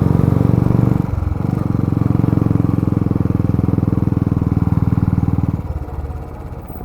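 Motorbike engine running under throttle with a steady pulsing exhaust beat, easing briefly about a second in, then pulling evenly; near the end the throttle closes and the engine note drops away to a lower level.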